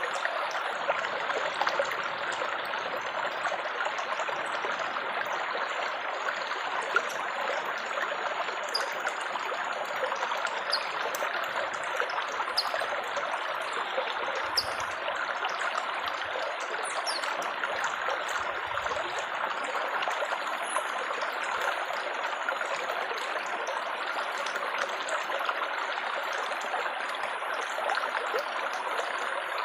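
Babbling stream of water, a steady trickling rush.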